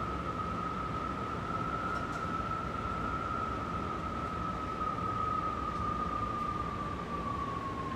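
Strong wind howling: a steady rushing noise with one high, held howl on top, sagging slightly lower in pitch toward the end.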